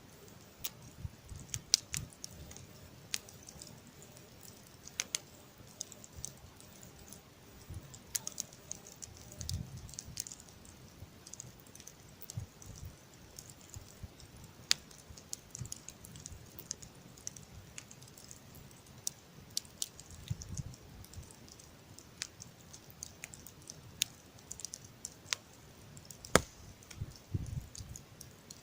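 Campfire crackling: burning wood giving off irregular sharp pops and snaps over a faint hiss.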